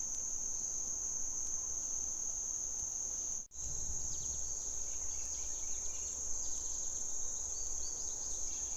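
Steady, high-pitched drone of forest insects calling, with faint short bird chirps from about four seconds in. The sound cuts out for an instant about three and a half seconds in.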